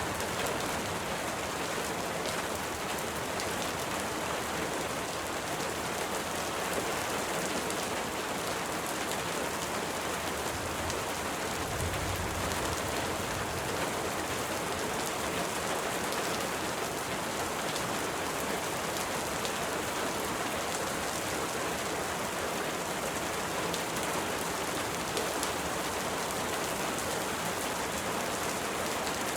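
Steady rain falling, an even hiss of many drops, with a brief low rumble about twelve seconds in.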